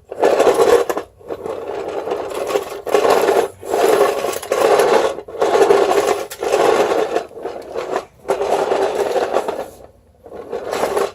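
Bissell Sweep Up manual carpet sweeper pushed back and forth on a tile floor, its spinning brush whirring and scraping over plastic clippings in repeated strokes about a second long with short pauses between. It is having very little success picking up the larger bits.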